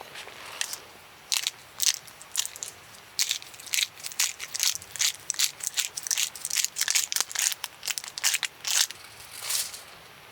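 Crunching: a quick, irregular run of short, crisp noises lasting several seconds, then stopping.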